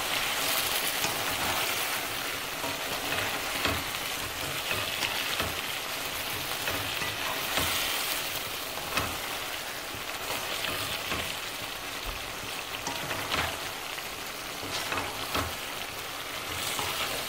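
Chicken pieces sizzling in hot oil in a karahi as they are fried with their spices and stirred with a spatula. The sizzle is a steady hiss, broken every second or so by light scrapes and knocks of the spatula against the pan.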